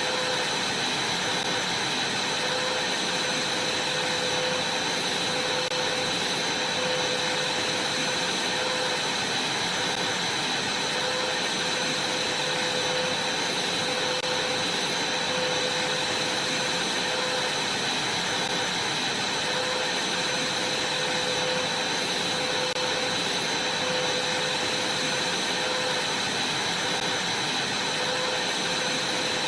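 Vacuum cleaner running steadily: an even rush of air with a constant high whine and a low hum.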